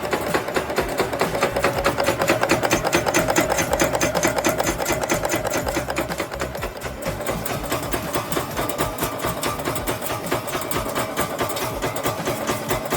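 Automated factory machine running at high speed, a fast, even mechanical clatter of many ticks a second over a steady hum; the pitch of the hum shifts up about halfway through.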